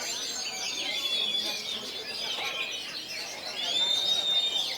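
Several oriental magpie-robins singing at once: a dense, overlapping tangle of whistles and trills, with one long, level whistle near the end.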